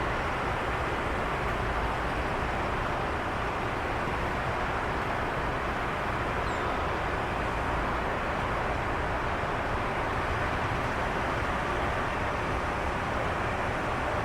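Steady roar of jet aircraft engines, holding an even level throughout.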